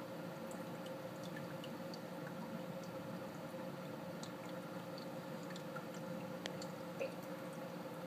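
Rain dripping during a thunderstorm: scattered light ticks and taps over a steady low hum.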